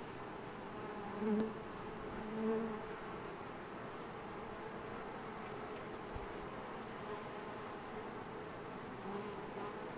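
Honey bees buzzing around a freshly hived swarm, a steady hum of many bees, with single bees humming louder as they pass close by about a second in, again a second later, and near the end.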